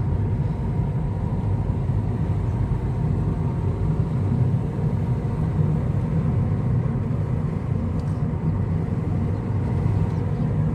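Steady car running noise, a low rumble of engine and tyres on the road, heard from inside a moving car.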